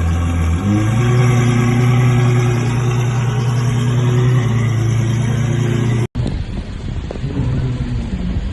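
Ferrari 812 Superfast's V12 engine running steadily, its note stepping up slightly about half a second in. About six seconds in the sound cuts off abruptly to another take, where the engine note wavers and rises near the end.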